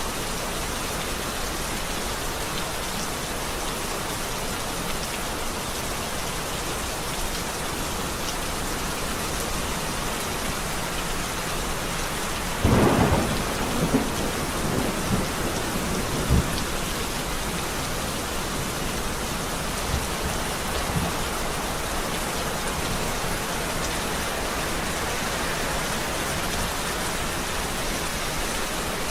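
Steady rain falling, with a sharp clap of thunder about halfway through that rumbles on for a few seconds, then fainter rumbles.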